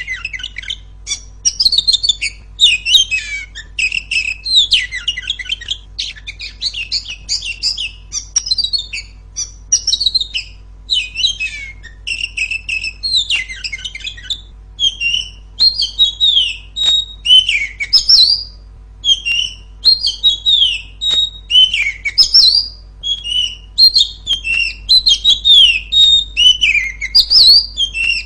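Female oriental magpie-robin singing loudly: a rapid, unbroken run of varied high whistles, chirps and slurred gliding notes, with a faint steady hum underneath.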